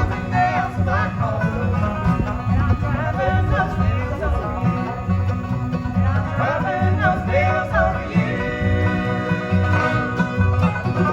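A bluegrass band playing live, with banjo, fiddle, mandolin, guitar and upright bass, over a steady, even bass beat.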